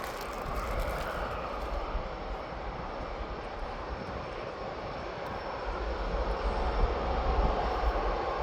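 Jet airliner engines heard from beside the runway as a plane departs: a steady, broad engine noise with a deep rumble underneath, growing louder over the last couple of seconds.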